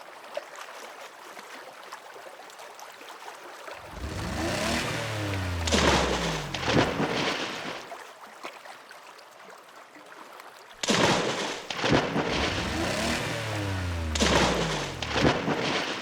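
Cartoon sound effect of low rumbling with a deep tone sliding down in pitch, starting suddenly about four seconds in and again about eleven seconds in, each lasting several seconds.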